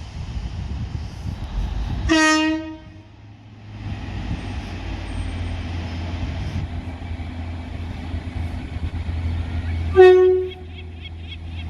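Diesel multiple unit's horn sounding two short tones about eight seconds apart, the second slightly higher, over the train's diesel engine running steadily.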